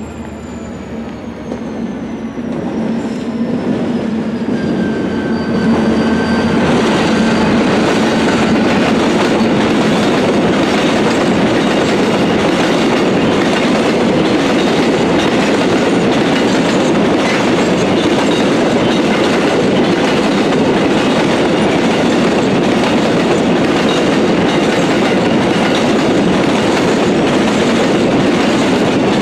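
Diesel freight train passing close by. In the first few seconds the locomotive's engine note grows louder and its whine falls in pitch as it goes past. After that comes a long, steady rolling noise of container wagons' wheels running on the rails.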